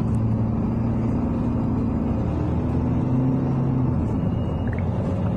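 Inside a moving city bus: steady low engine and road rumble, with the engine's hum shifting pitch partway through.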